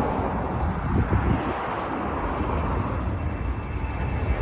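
Jet engines of a C-17 Globemaster III departing, heard as a steady rush with a deep rumble underneath; a thin steady whine comes in near the end.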